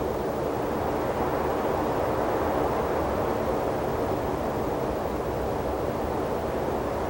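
Steady wind blowing across an open desert landscape, an even rushing noise with no distinct events.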